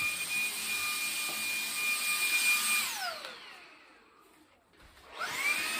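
Shark handheld cordless vacuum running with a steady high whine, switched off about three seconds in so its motor winds down to near silence, then switched back on near the end and spinning up to speed.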